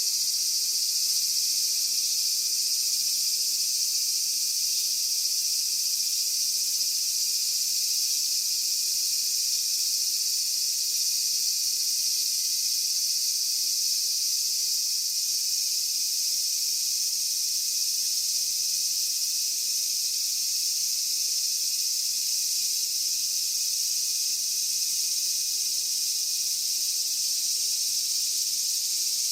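Dense, steady chorus of insects: a continuous high-pitched shrill hiss with no pauses.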